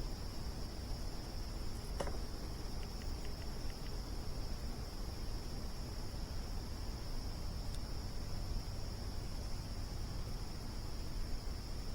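A steady chorus of crickets trills at one high pitch over the low crackle of a campfire. One sharp pop comes about two seconds in, followed by a few faint ticks.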